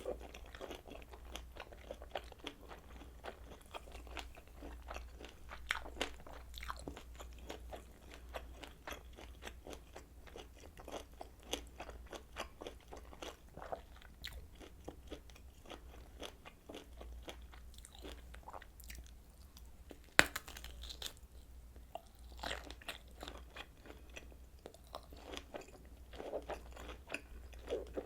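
Close-miked eating of kielbasa sausage: a steady run of snapping bites and moist chewing clicks, with one sharp, louder click about two-thirds of the way through.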